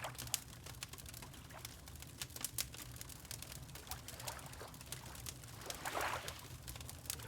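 Fireplace crackling, with irregular sharp pops and snaps over a low rumble, alongside water lapping, which swells into a louder slosh about six seconds in.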